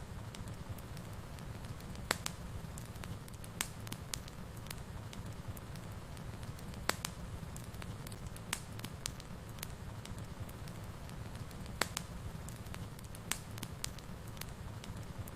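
Wood fire burning in a fireplace: a steady low rumble of the flames with irregular sharp crackles and pops, a few louder snaps about 2, 7 and 12 seconds in.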